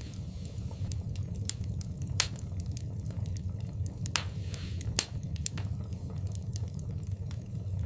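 Fire burning in a fireplace: irregular sharp crackles and pops over a steady low rumble, with louder pops about two seconds in and about five seconds in.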